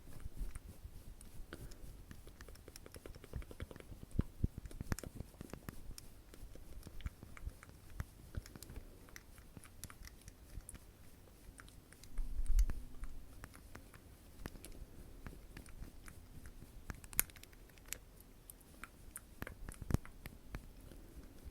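ASMR mouth sounds: a scattered run of small wet clicks and smacks from lips and tongue, with a brief low thud near the middle.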